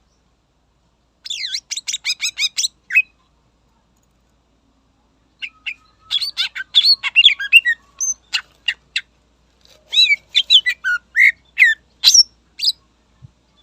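Green leafbird (cucak ijo) singing in three bursts of quick, sweeping high whistled notes, with short silent pauses between the phrases.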